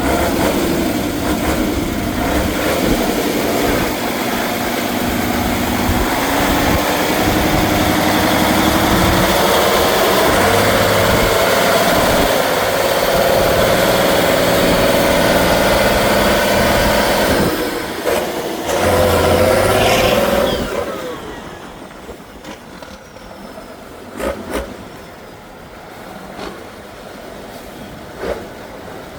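Off-road trial truck's engine working hard under load, its pitch climbing steadily over the first half. It eases off briefly, revs up again, then drops away about two-thirds of the way through, leaving a quieter background with a few short knocks.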